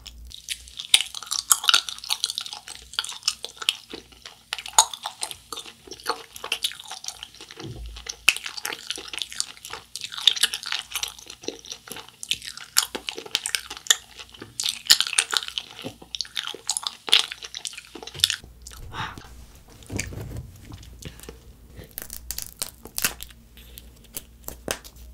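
Chewing of a Planet Gummi globe-shaped gummy candy: a dense run of crunchy, crackly clicks that thins out about three-quarters of the way through. Sharp crinkly clicks near the end come from plastic candy packaging being handled.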